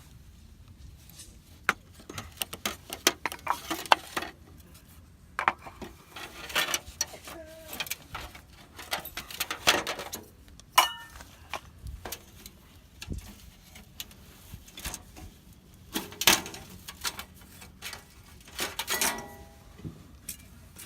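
Camping gear being handled on a metal table: irregular clinks, knocks and rustling, with one short ringing clink about eleven seconds in.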